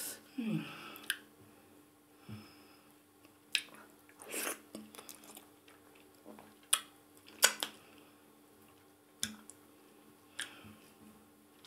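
Close-up mouth sounds of someone eating maize fufu with ogbono soup by hand: quiet chewing broken by scattered sharp lip smacks and clicks.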